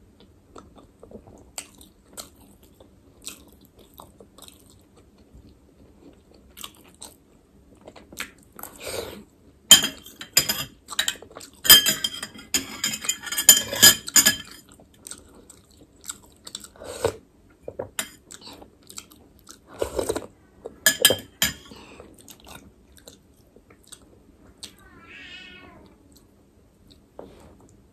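Close-up chewing and mouth noises of a person eating chicken momos: wet smacks and crunches, thickest in a run about ten to fourteen seconds in and again around twenty seconds.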